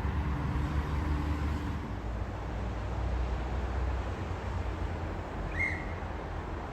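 Low, steady rumble of a motor vehicle, heavier in the first few seconds, with one short high chirp about five and a half seconds in.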